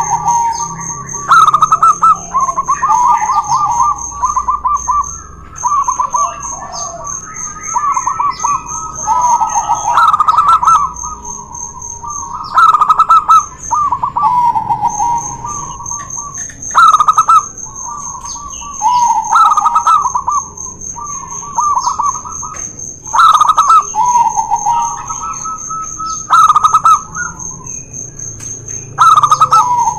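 Zebra doves (perkutut) singing their rapid stuttering coo, several birds' calls overlapping and answering each other, with the loudest calls coming about every three seconds. A steady, high-pitched pulsing whine runs underneath.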